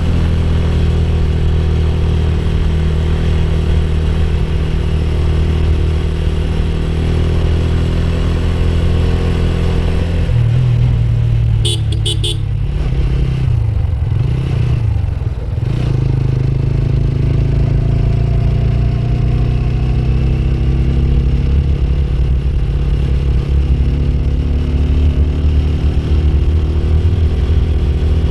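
Motorcycle engine running on the move, its revs dropping and gliding back up between about ten and sixteen seconds in, with three short high beeps near twelve seconds.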